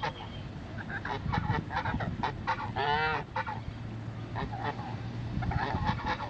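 Geese honking in a string of short calls, with one longer, drawn-out honk about three seconds in.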